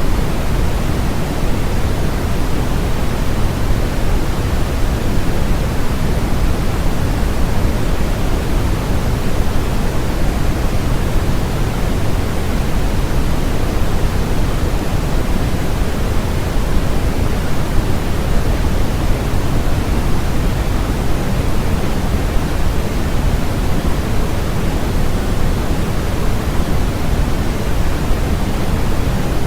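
Steady, loud, electronically generated noise with no changes at all: an even rushing hiss with more weight in the low end than in the highs.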